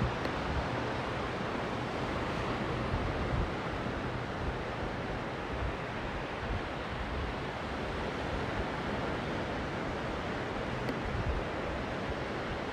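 Steady wash of sea surf mixed with wind on the microphone, an even rushing hiss with some uneven low buffeting.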